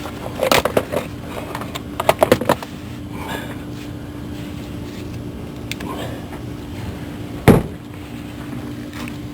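Metal tools or parts clinking in a few short clusters of clicks, then one sharp knock near the end, over a steady low hum.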